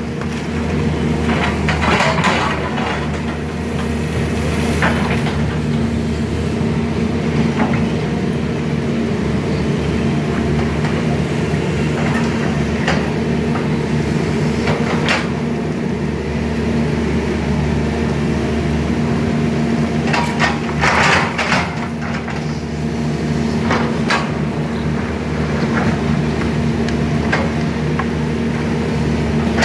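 Sany SY210C-9 hydraulic excavator's diesel engine running steadily, with scattered metallic clanks and knocks, several of them close together a little after two-thirds of the way through.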